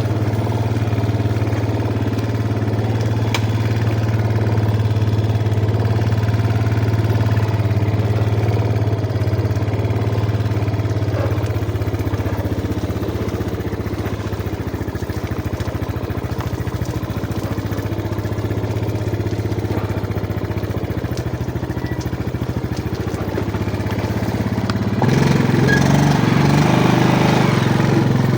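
Yamaha Jupiter MX single-cylinder four-stroke motorcycle engine running steadily at low revs, then picking up revs and getting louder about 25 seconds in.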